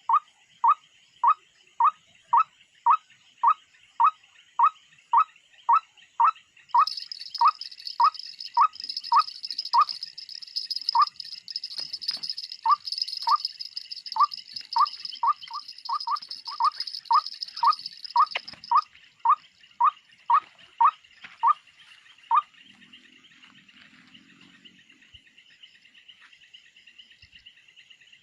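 A short, sharp animal call repeated about twice a second, stopping about 22 seconds in, over a steady high drone of insects. A louder, higher insect buzz joins from about 7 seconds in and stops around 19 seconds.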